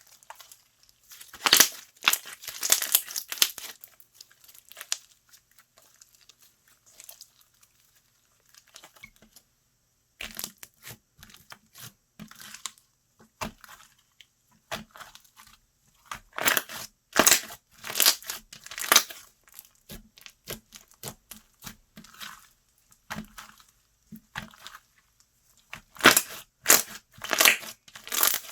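Slime being squeezed, stretched and pressed by hand, crackling and popping in spells of a few seconds, with short quiet gaps between. The loudest spells come near the start and near the end.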